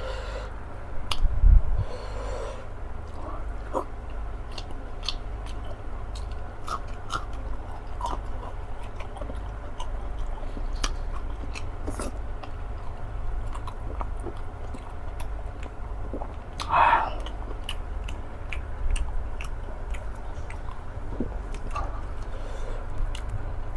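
Close-up chewing of fufu: wet mouth clicks and smacks scattered throughout. A brief voiced sound from the eater comes about 17 seconds in.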